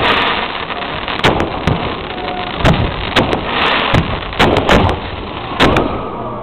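Fireworks display: aerial shells going off in an irregular run of about a dozen sharp bangs, several in quick pairs, with a short rush of noise a little past halfway.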